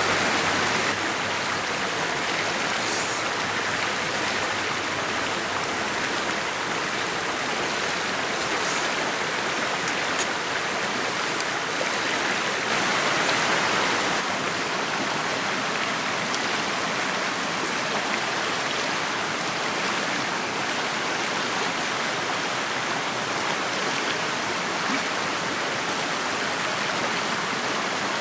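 Steady rushing sound of running water, even throughout, with a faint click about ten seconds in.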